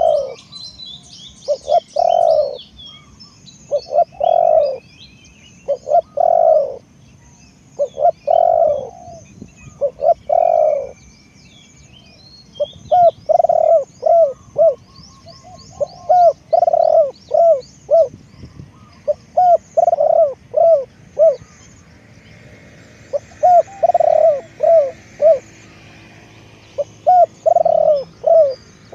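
Spotted dove cooing over and over, in phrases of several short hooting notes, with small birds chirping faintly in the background.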